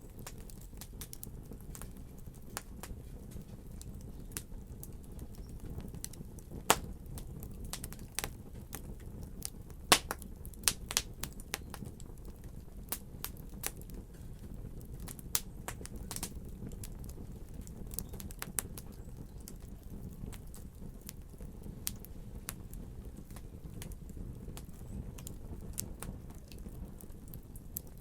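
Wood fire crackling, with irregular sharp pops and snaps over a steady low rumble of flames; the loudest pops come about seven and ten seconds in.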